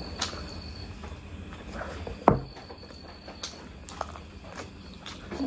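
Close-miked wet chewing and lip smacks of someone eating mutton curry, with irregular short smacks and one much louder smack about two seconds in, over a low steady hum.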